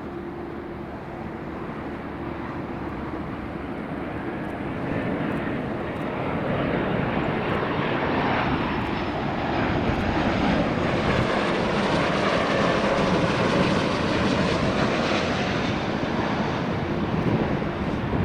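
Airliner's engines growing steadily louder as the aircraft approaches and passes, with a faint high whine falling in pitch.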